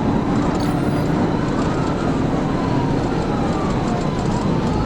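Police cruiser siren wailing, slowly rising and falling, over heavy steady road and engine noise from the pursuing car.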